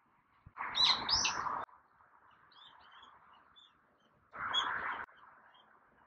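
Brown-eared bulbul giving two loud, harsh calls, the first about half a second in and lasting about a second, the second shorter, about four and a half seconds in, with faint small chirps of other birds between them.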